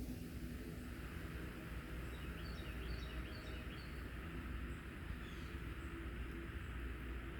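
Outdoor ambience: a steady low rumble and a steady hiss, with a quick series of high, thin bird chirps from about two seconds in to nearly four seconds in.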